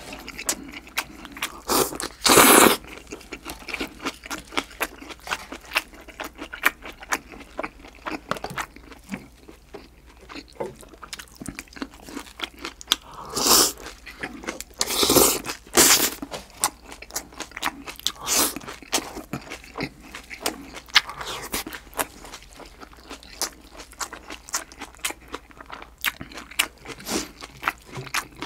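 Close-miked chewing and crunching of seasoned green onion salad with green chilies and thin-sliced pork belly: a steady run of wet, crisp mouth clicks, with a few louder slurps as strands of onion are sucked in.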